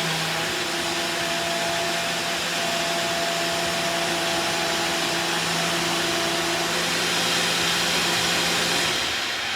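Vacuum cleaner running steadily with a motor hum and rushing air, then switched off near the end, its motor winding down.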